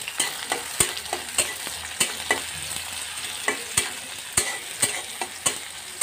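Chopped onion and garlic sizzling in hot oil in a metal karai, stirred with a steel spatula that clicks and scrapes against the pan about ten times.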